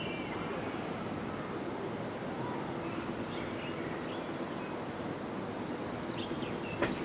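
Steady rushing of gusty wind, with a few faint, short, high bird chirps in the middle and near the end, and one sharp click just before the end.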